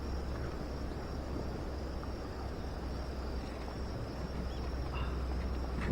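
Outdoor ambience: insects trilling steadily at a high pitch over a constant low rumble, with a few faint short chirps near the end.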